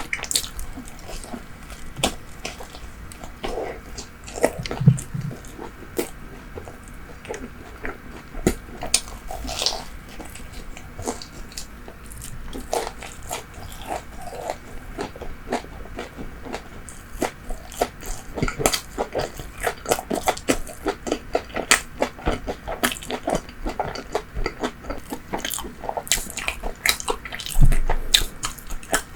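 Close-miked chewing of bread and fried pastry: a constant run of small crunches and wet mouth clicks, coming thicker in the second half.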